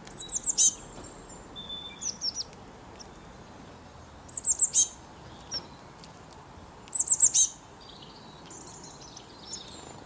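Small bird chirping: three loud bursts of four or five quick, high notes, one near the start, one midway and one past seven seconds, with softer chirps between.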